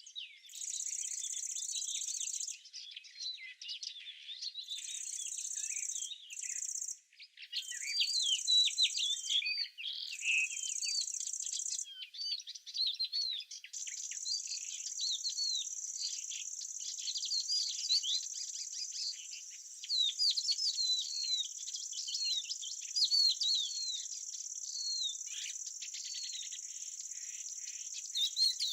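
Small birds twittering busily in quick rapid chirps, over a high steady trilling of insects. The insect trill cuts in and out several times in the first half, then runs without a break.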